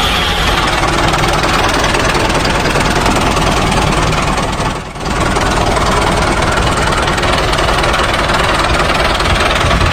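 An engine running steadily; the sound drops away briefly about halfway through, then carries on as before.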